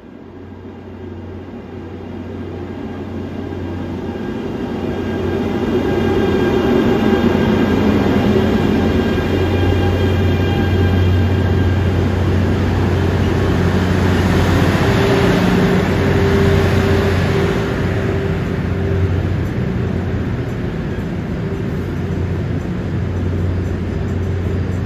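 Korail 8500-series electric locomotive and its train approaching and rolling into a station. The sound grows louder over the first several seconds, then stays loud with a steady rumble. A steady high whine fades out about halfway through.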